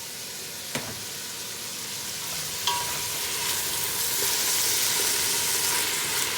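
Chicken pieces sizzling and frying in a pot, the sizzle growing louder, with a metal clink of a utensil against the pot about a second in and another near three seconds, the second leaving a brief ring.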